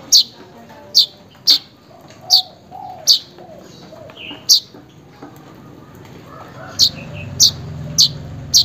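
Manyar (weaver bird) giving short, sharp, high chip calls, about ten in all, each under a second apart, with a pause of about two seconds past the middle. This is its call to rivals or mates, the kind keepers play to get a silent manyar singing.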